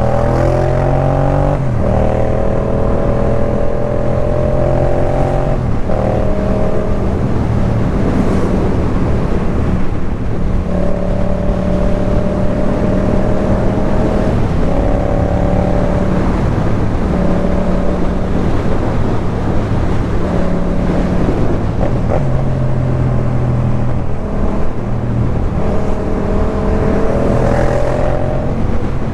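Yamaha MT-07's parallel-twin engine through a Jeskap K4 full exhaust, under way: the note climbs as the bike accelerates, then drops and climbs again with several gear changes.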